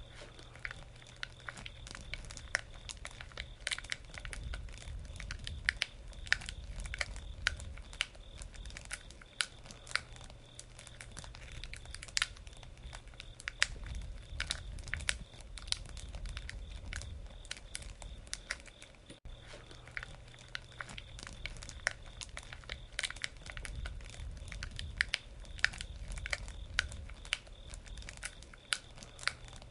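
Campfire of burning wood crackling, with frequent irregular sharp pops over a low steady rumble of the flames.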